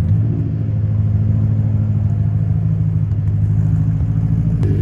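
BMW E92 M3's 4.0-litre V8 running steadily with both mufflers removed, its exhaust open behind the resonators, giving a loud, deep, even drone.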